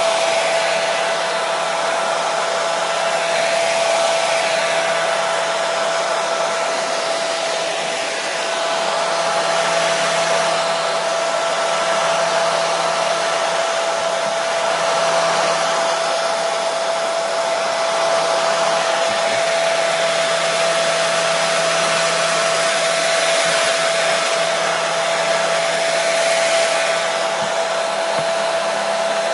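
Electric hair dryer running steadily, an even rushing of air with a constant whine from the motor and a faint low hum.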